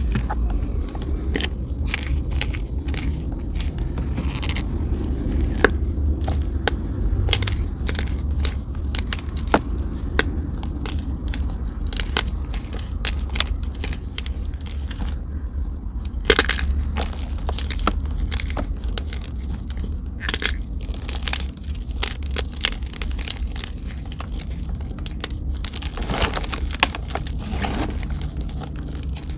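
Blocks of gym chalk being crushed and crumbled by hand close to the microphone: a dense, irregular run of sharp crunches and crackles over a steady low rumble.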